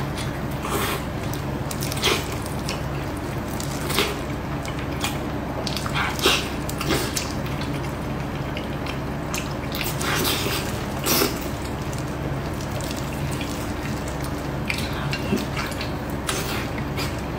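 Wet chewing and smacking of a person eating braised pork knuckle, with scattered sharp mouth smacks over a steady low hum.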